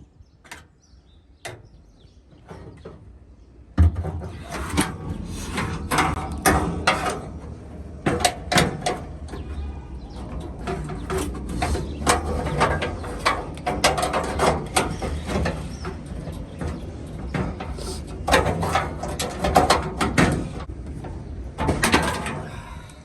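Hand tools working the car's spot-welded sheet-metal body: a few light clicks, then from about four seconds in a dense, irregular run of metallic knocks and scraping as the panel is chiseled and pried off.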